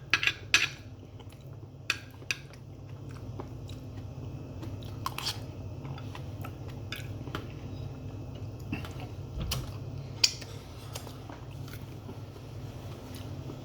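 A person chewing and biting food close to the microphone, with scattered sharp clicks, mostly in the first couple of seconds, over a steady low hum.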